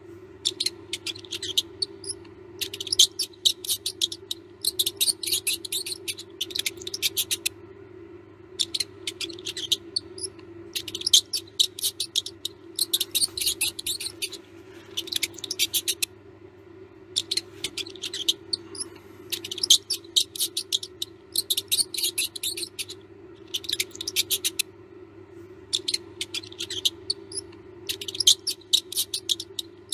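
Mouse squeaking: rapid trains of very high, thin squeaks in bursts of about a second, with short pauses between them, over a steady low hum.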